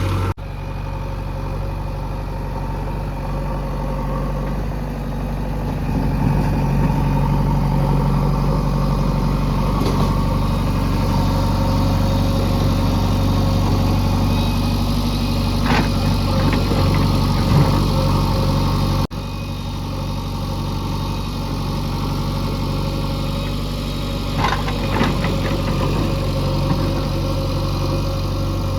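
Heavy diesel engine of earthmoving machinery running steadily, with a few short metallic clanks about halfway through and again near the end.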